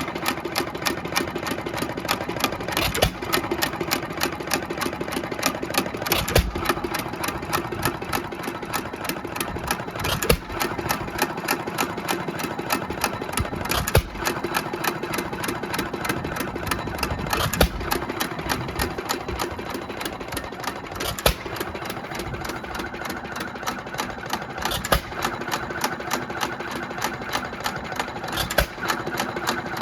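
1920 Economy 2 1/2 HP hit-and-miss engine with a Webster magneto, running unloaded on its first test run. It fires a strong bang about every three and a half seconds and coasts between firings, with a fast, steady mechanical clatter.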